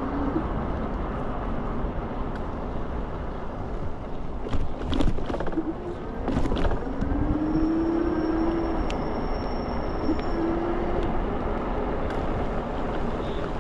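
Wind buffeting the microphone and tyre rumble while riding an electric scooter, with a short run of knocks and rattles about five to seven seconds in.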